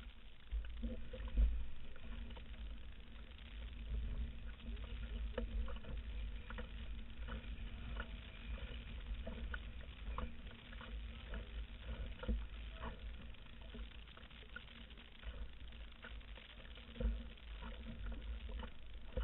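Water lapping and pattering against a canoe hull in small irregular splashes, over an uneven low rumble of wind on the microphone.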